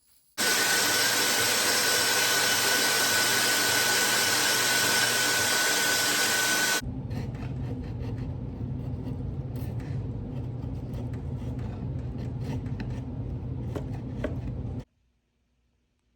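Workshop power tools working on material. First a steady high hiss with a constant whine, then, after an abrupt change about seven seconds in, a lower rumbling grind with scattered clicks that cuts off suddenly near the end.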